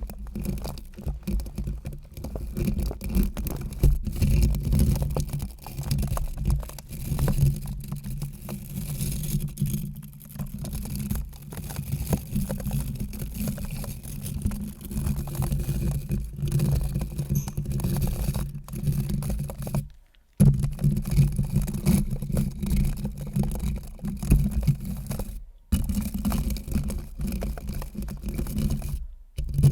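A close, steady buzzing hum from a small vibrating motor, with crackling over it. It drops out briefly about two-thirds of the way through and twice more near the end.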